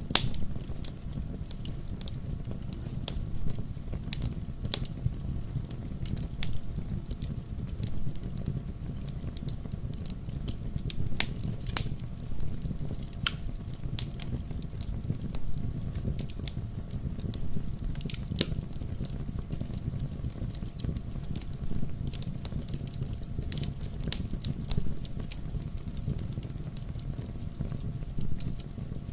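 Wood bonfire crackling: sharp, irregular pops and snaps, a few louder ones, over a steady low rumble.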